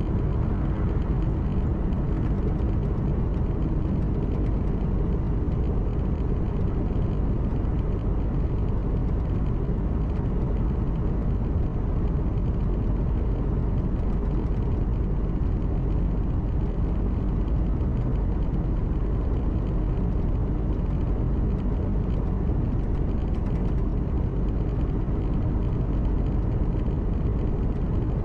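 Steady engine hum and road noise of a truck cruising, heard from inside the cab, with no change in pitch or level.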